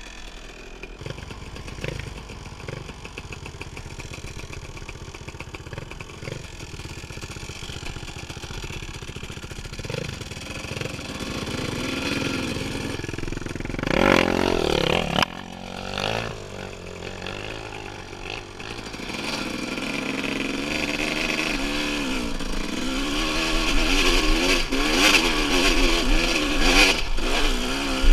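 Dirt bike engine, low and steady at first, then one sharp rev that rises and falls about halfway. From about two-thirds of the way in it runs under throttle, its pitch wavering up and down and growing louder toward the end.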